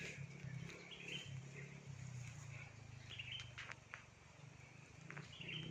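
Faint short bird chirps, a few of them spaced a second or two apart, over a steady low hum.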